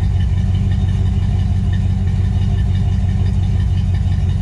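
A vehicle engine idling steadily with a deep, low rumble.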